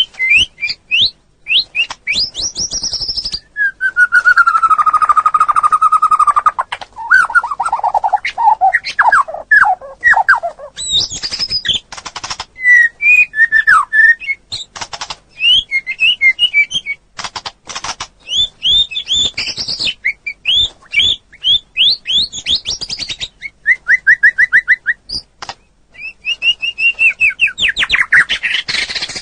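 Songbird singing a loud, varied song of quick sweeping chirps and rattling trills, with a longer falling whistle about four seconds in.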